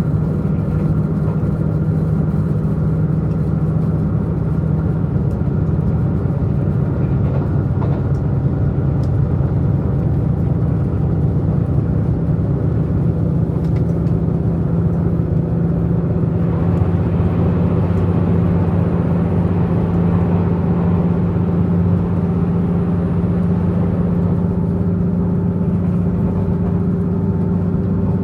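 Diesel engine of a Tze-Chiang diesel multiple unit running under power, a steady drone heard from inside the passenger car, mixed with rail running noise. About two-thirds of the way through, a lower note joins the engine sound.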